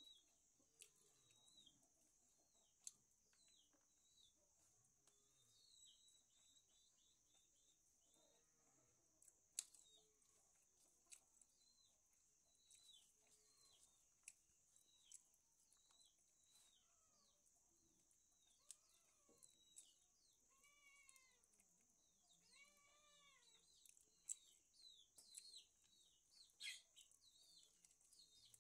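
Near silence with faint bird calls: many short high chirps and a few sharp clicks over a steady high hiss, and a run of clucking calls about two-thirds of the way through.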